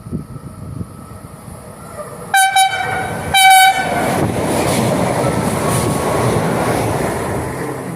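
A train sounding two short horn blasts about a second apart, each a single pitched tone, as it comes in. The rumble of its approach builds beforehand, and after the blasts comes the loud, steady rush of the train going past.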